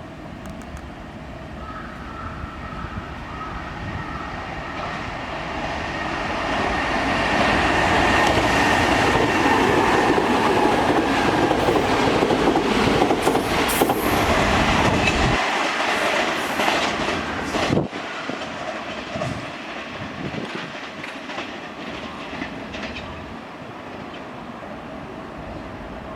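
Kintetsu Minami-Osaka Line electric train running past a platform. The rumble grows to a peak in the middle with a steady whine over it, then clatters over the rail joints and fades away.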